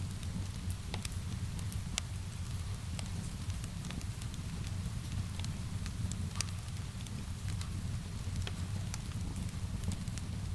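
Wood fire crackling, with irregular sharp pops and snaps over a steady low rumble, mixed with a soft hiss of rain.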